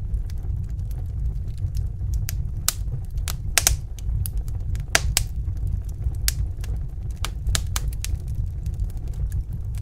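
Wood fire crackling: irregular sharp pops and snaps, a few louder than the rest, over a steady low rumble of the burning fire.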